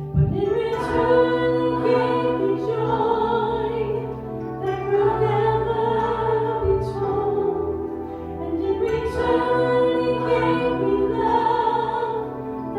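A woman singing a slow song in long held notes with vibrato, over steady instrumental accompaniment.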